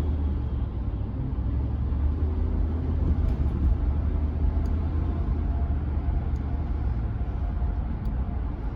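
Steady low engine and road rumble inside the cab of a Chevrolet C10 pickup cruising on the highway.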